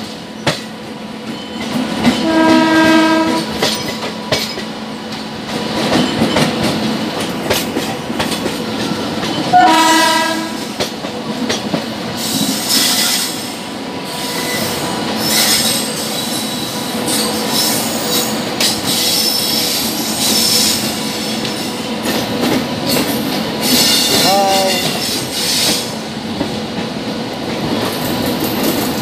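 Passenger coaches rolling past at close range with a steady rumble, clattering over rail joints, and high wheel squeal through the middle stretch. A locomotive horn sounds twice, a longer blast about two seconds in and a short one near ten seconds.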